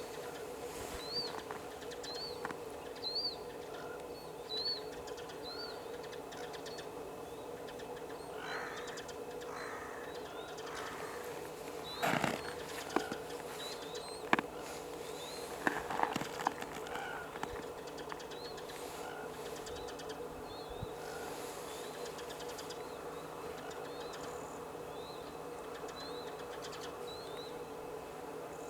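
A small bird repeatedly giving short, high chirps, about one a second, in runs with pauses between, over a steady low hum. Midway there are a few rustles and sharp knocks.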